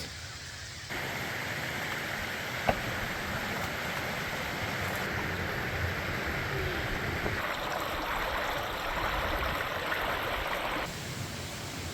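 Creek water flowing, a steady rushing babble that shifts in tone a couple of times, with one brief click about three seconds in.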